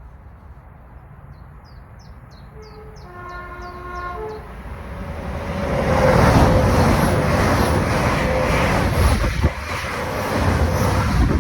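A train sounds a two-note horn, alternating a higher and a lower tone, then runs past loudly with a heavy rumble and rail clatter that builds to a peak a few seconds later.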